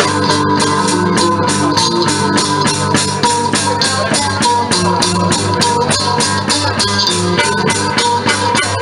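Live blues band playing an instrumental passage with no singing, the drums keeping a steady beat of sharp strokes about four a second under sustained notes.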